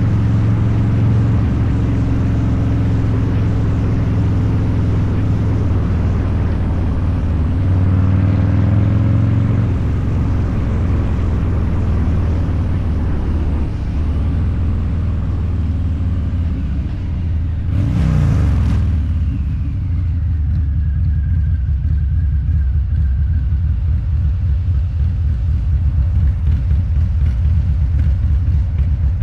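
Harley-Davidson Low Rider's 129 cubic inch V-twin with Two Brothers Racing exhaust running under way, its note rising briefly about a third of the way in. A short whoosh comes a little past halfway, and the engine then settles into a lower, lumpy beat.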